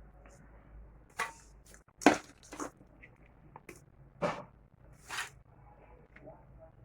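Small file scraping the soldering iron's tip in about five short, separate strokes, the second the loudest, to clear away built-up solder that keeps the heat from reaching the tip.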